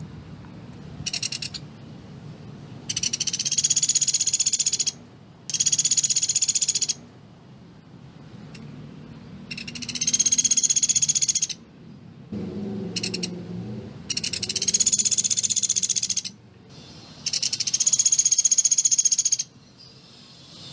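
Sunda pygmy woodpecker (pelatuk beras) giving its rapid, dry rattling trills, about seven bursts in all. Most last one to two seconds and two are brief, with short pauses between them.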